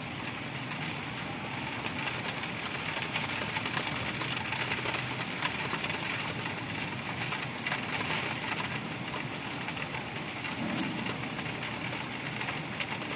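Heavy rain falling: a steady, dense hiss peppered with many small drop splashes.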